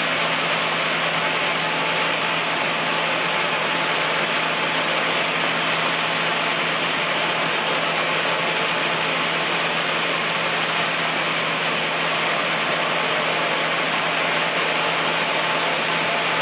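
Chainsaw engine running at a steady high speed, with an unchanging pitch and level throughout.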